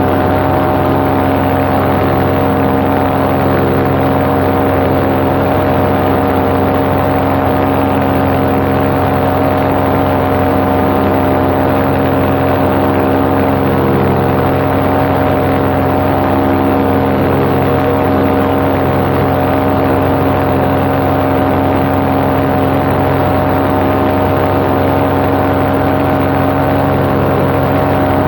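Paramotor's engine and propeller running steadily at cruise power, with an unchanging hum of engine tones over a constant rush of air.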